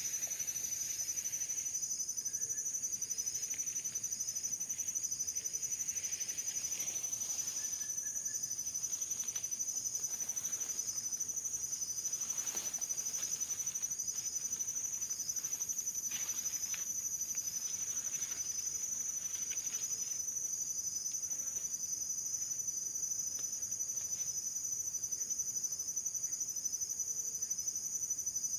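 Insects chirring: a steady high-pitched trill, with a second insect giving a short chirp repeated a little more than once a second.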